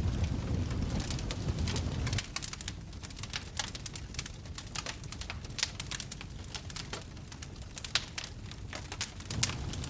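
Wood fire crackling in a fireplace, with many sharp pops and snaps. A low rumble lasts about two seconds, stops abruptly, and comes back near the end.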